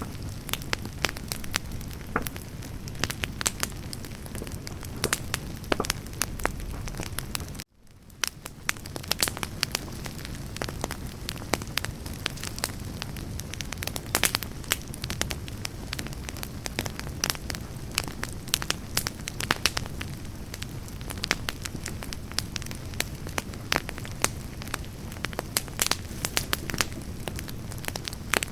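Firewood campfire burning, with many sharp irregular crackles and pops over a steady hiss. The sound cuts out abruptly about eight seconds in and fades back within a second.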